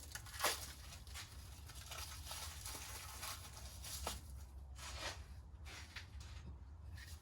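Light handling noises: a sharp click about half a second in, then scattered soft taps and rustles over a low steady hum.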